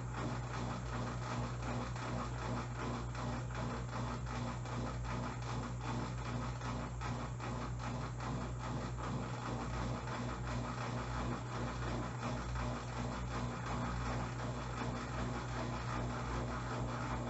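Electrolux LTE09 top-loading washing machine in its spin cycle: a steady motor hum and whir that does not change.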